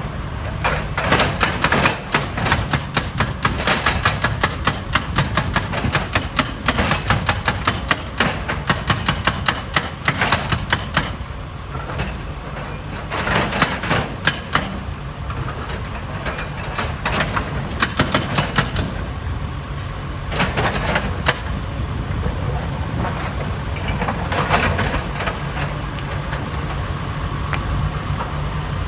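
Heavy rock-handling machinery at a stone crusher, its diesel engine running with a steady hum while rocks clatter and knock in rapid runs, separated by quieter stretches.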